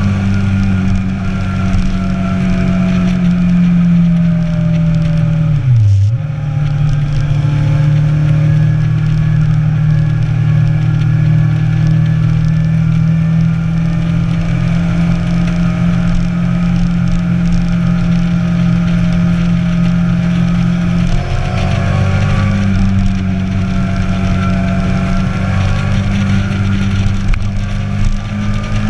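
Motorcycle engine running steadily under way. Its pitch dips sharply about six seconds in and settles a little lower, then rises again around twenty-one seconds.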